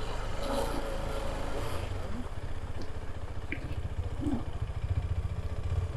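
Motorcycle engine idling with a steady low beat, faint voices in the background.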